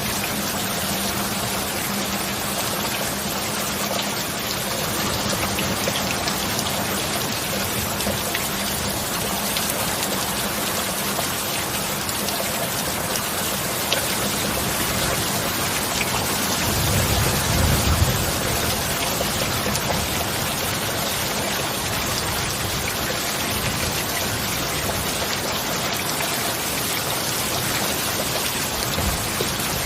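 Heavy rain falling steadily, a dense even hiss of drops. About two-thirds of the way through, a brief low rumble of thunder swells and fades.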